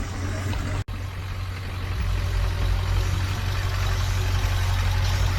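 A car engine idling: a steady low rumble with a broad hiss over it, cut off for an instant about a second in.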